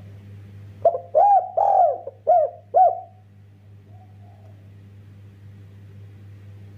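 Spotted dove (derkuku) cooing: a phrase of about five rounded coos, the third the longest, starting about a second in, then a faint single coo a second later. A steady low hum runs underneath.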